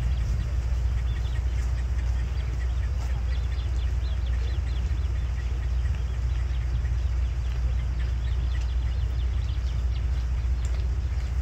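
A steady low rumble, with many short, high bird calls repeating over it from about a second in.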